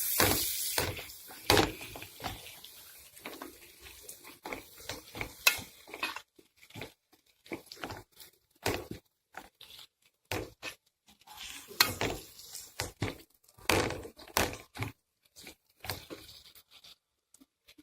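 A spatula stirring and scraping chopped tomato, capsicum and onion in a frying pan while they sauté. The clicks and scrapes come irregularly, with short pauses between strokes.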